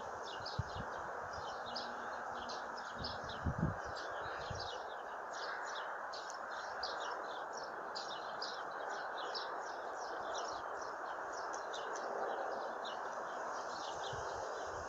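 Small songbirds chirping busily, many short repeated chirps, over a steady outdoor background hiss, with a few low bumps in the first few seconds.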